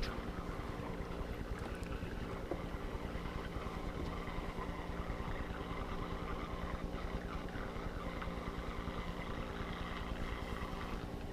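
A steady mechanical hum at an even pitch, mixed with a constant hiss; the upper part of the hiss falls away near the end.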